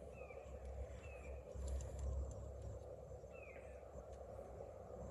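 A bird giving three short, falling chirps, spread across a few seconds, over a steady low background rumble.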